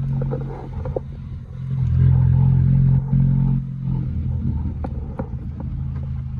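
Car engine running with a low, steady drone that swells louder about two seconds in and eases back just after three seconds, with a few light clicks later on.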